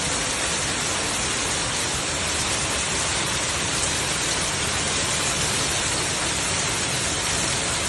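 Heavy storm downpour pelting down in a dense, steady hiss.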